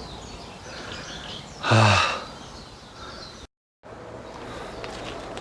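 Quiet forest background with scattered faint bird calls; about two seconds in, a person gives one loud voiced sigh. A little later the sound cuts out completely for a split second.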